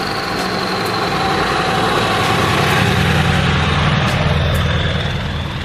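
Ford 7.3 Powerstroke diesel engine of an OBS Ford truck running, a little louder toward the middle.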